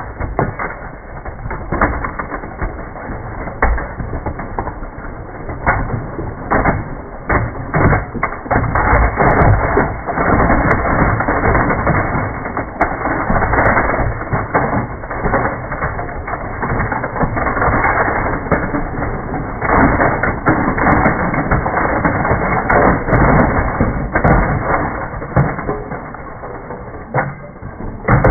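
Dense, continuous clatter of a bin of metal die-cast toy cars being poured out, the sound slowed down along with the slow-motion picture so it comes out muffled and low.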